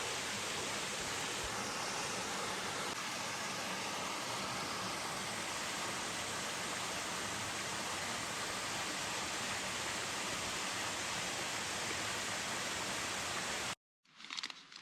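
Large waterfall rushing steadily into a deep pool, with no change in the sound until it cuts off abruptly near the end.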